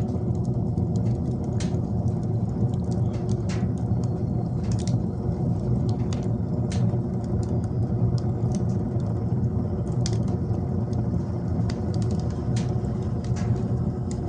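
Wood fire burning in a wood stove: a steady low rumble with irregular sharp crackles, a few every second.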